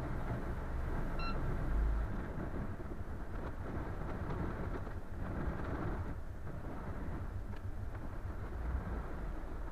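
Low, steady rumble of a boat under way, with a single short beep about a second in.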